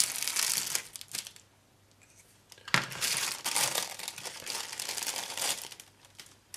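Thin plastic bag crinkling in two spells as model-kit sprues are handled in their bag, one in the first second and a longer one from about three seconds in.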